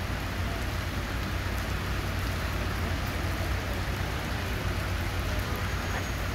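Heavy rain falling steadily on a wet street and pavement, an even hiss with a low rumble underneath.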